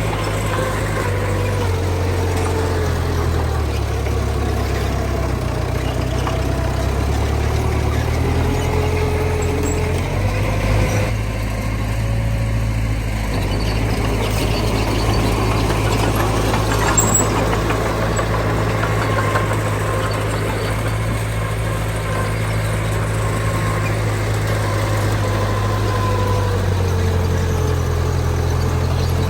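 Heavy diesel earthmoving machinery running steadily, a low engine drone with a faint wavering whine above it.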